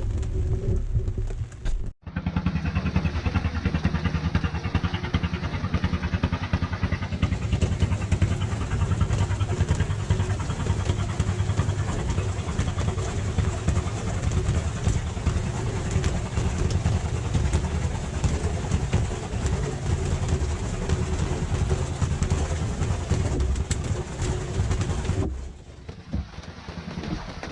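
Engine running steadily with a low, even drone. It starts abruptly about two seconds in and cuts off abruptly near the end.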